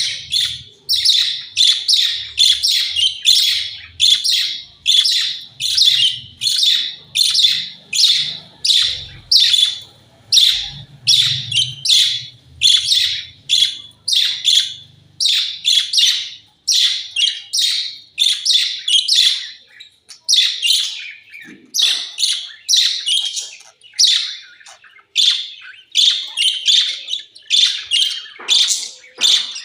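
Budgerigars calling during a squabble: a steady string of short, high, shrill calls, about one and a half a second.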